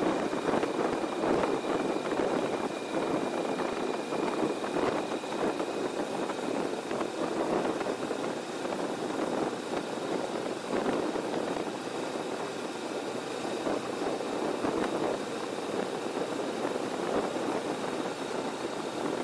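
Heavy wind noise buffeting the 360 camera's microphone on a moving motorcycle, a steady ragged rush with constant flutter, with the Kawasaki Vulcan S engine running underneath it.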